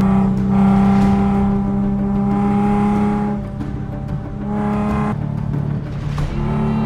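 Car engine held at high revs, dropping about five seconds in and climbing again near the end, mixed with background music.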